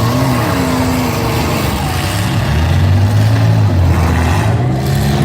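Demolition derby cars' engines running and revving, their pitch rising and falling; the note climbs and is heaviest about three seconds in.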